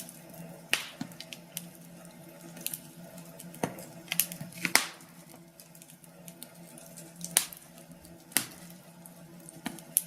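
Wood fire crackling in a fireplace: irregular sharp cracks and pops, a few standing out loudly, over a soft hiss and a low steady hum.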